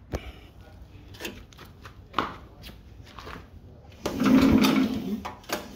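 The choked 301 cc Harbor Freight engine is pull-started by its recoil starter: a hard pull about four seconds in turns the engine over for about a second and a half without it catching, and a second pull begins at the very end. A few light clicks and knocks of handling come before the pull.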